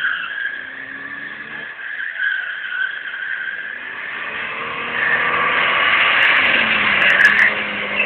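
Car drifting, its tyres squealing and skidding over the engine note. The squeal grows louder about five seconds in, and the engine drops in pitch near the end.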